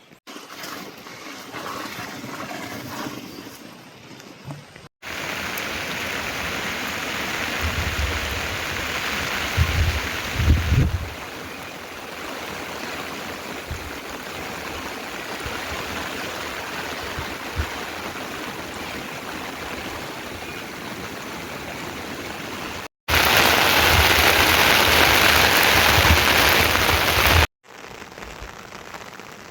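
Steady rain, heard as an even hiss in several takes cut together, the loudest one near the end.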